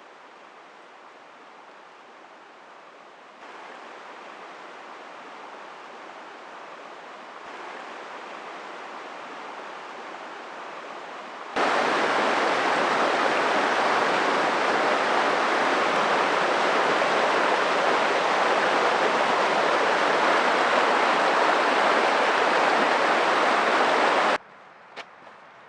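Steady hiss of heavy rain falling in the woods. It gets louder in sudden steps and is at its heaviest for about thirteen seconds, then drops abruptly to a much quieter level near the end.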